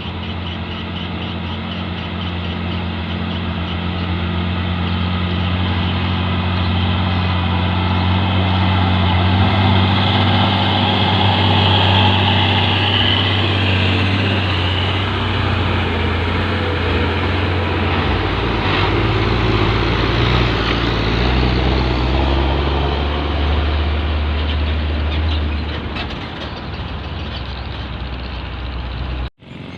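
Heavy diesel truck engine running under load, its low note getting louder over the first several seconds, then settling to a lower pitch a little past halfway. The sound cuts off abruptly near the end.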